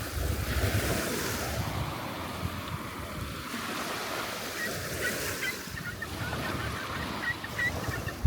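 Surf washing on the beach, with wind buffeting the microphone. Short, faint bird calls come in during the second half.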